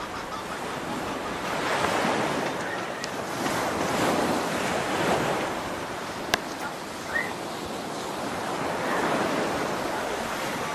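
Waterfall water rushing steadily, swelling and easing a little, with one sharp click about six seconds in and a brief chirp just after.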